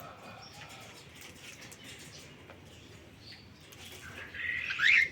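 Cockatiel giving a short call that rises sharply in pitch near the end, after a few seconds of faint chirps.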